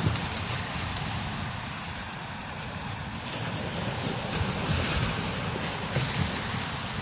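Strong desert wind gusting over sand dunes: a steady rushing hiss that swells around the middle and eases again, with low buffeting of the wind on the microphone.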